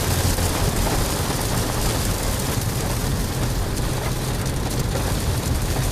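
Heavy thunderstorm downpour drumming steadily on a car, heard from inside, with a low steady hum underneath.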